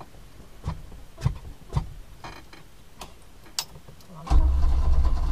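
A few sharp clicks and knocks, then about four seconds in the 1967 Opel Rekord C 1900L's 1.9-litre four-cylinder engine starts almost at once and runs on with a loud, steady low rumble.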